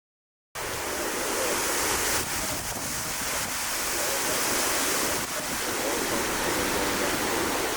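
Dead silence, then about half a second in a sudden cut to a loud, steady rush of strong wind buffeting the microphone.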